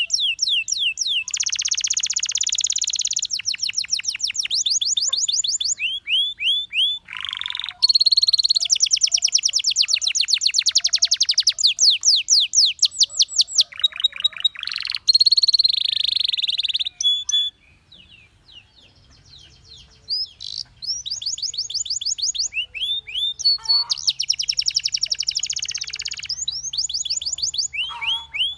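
Canary singing: long phrases of rapid trills, each made of quickly repeated high notes, with a short pause about two-thirds of the way through before the song starts again.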